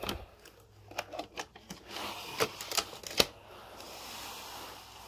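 Two Roomba robot vacuums, a first-gen and a 560, handled and turned upside down: a string of sharp hard-plastic clacks and knocks, then a soft steady rubbing sound near the end as they are set in place.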